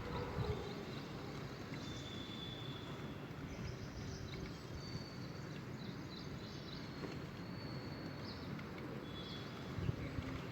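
Faint, thin, high whistled bird calls, several short held notes, over a steady background hiss.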